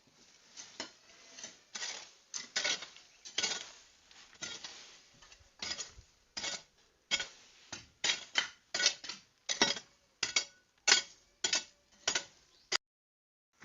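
Repeated strokes of a metal hand tool clearing the ground, about twenty sharp clinking hits at an uneven pace that quickens after the middle, cutting off suddenly near the end.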